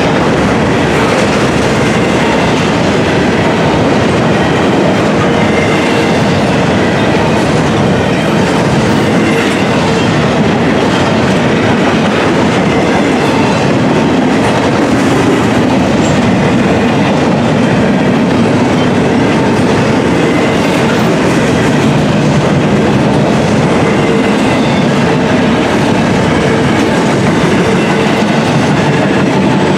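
Intermodal container train rolling past at close range: a loud, steady noise of steel wheels on the rails, with the clickety-clack of the cars.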